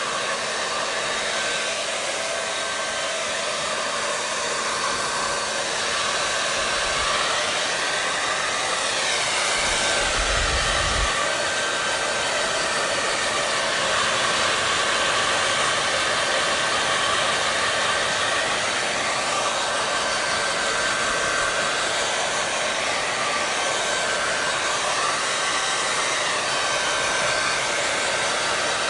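Hair dryer running continuously: a steady rush of blown air with a faint high whine and low hum. Its tone shifts slowly a few times, and there is a brief low rumble about ten seconds in.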